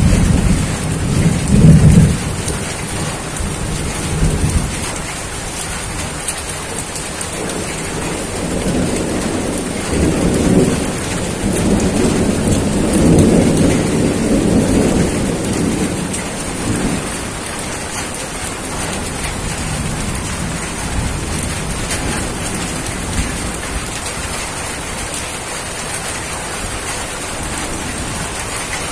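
Steady heavy rain with thunder rumbling, loudest about two seconds in and again in long rolls through the middle, then dying down to rain alone toward the end.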